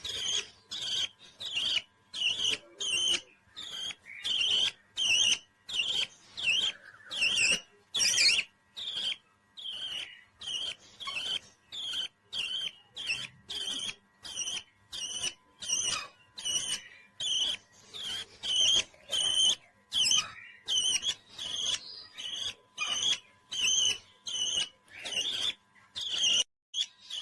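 A pet parrot calling over and over in short, high chirps, about two a second, in a steady rhythm.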